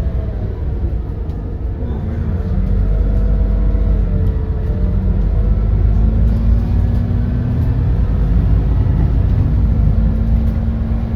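The GX12P natural-gas engine of an Edison Motors Smart 110G city bus running under way, a deep steady rumble heard from inside the bus. Its note rises slowly, then drops briefly about nine seconds in and holds.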